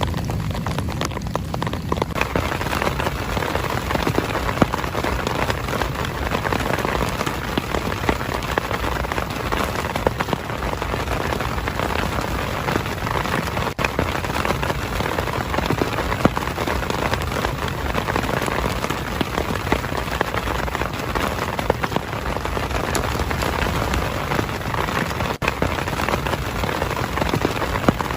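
Heavy rain falling steadily, with many individual drops ticking on a nearby surface; it fills out and grows a little louder about two seconds in.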